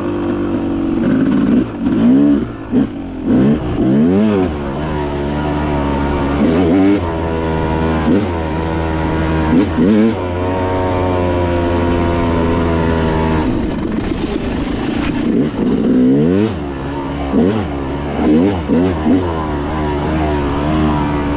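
Dirt bike engine on a trail ride, its pitch rising and falling again and again with the throttle. It holds a steady high pitch for several seconds in the middle, then drops sharply.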